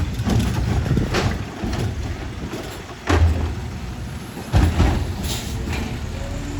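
Garbage truck running, with several short noisy bursts over the engine; the loudest come about three seconds in and again about a second and a half later, each with a low thump.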